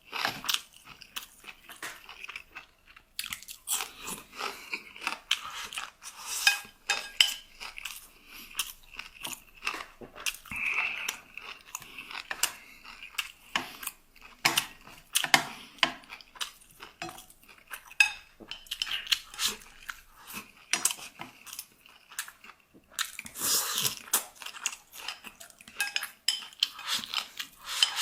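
A person chewing and crunching food close to the microphone, with a dense run of crisp bites and wet mouth clicks and a few louder bursts near the end.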